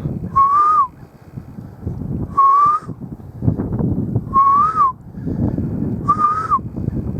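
A person whistling four short notes about two seconds apart, each rising slightly then dropping quickly at the end, trying to get roosting birds to raise their heads. A low rumbling noise runs underneath.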